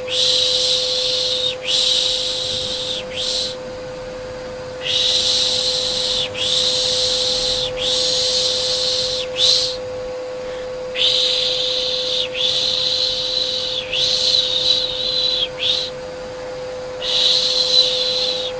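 Soothing 'shhh' shushing for a baby, in groups of long hissing strokes with short breaks between groups. Under it, a vacuum cleaner runs with a steady hum.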